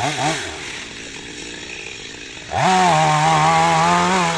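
Two-stroke Stihl chainsaw: a quick throttle blip at the start, then idling, then opened up to full throttle about two and a half seconds in and held there at a steady high pitch.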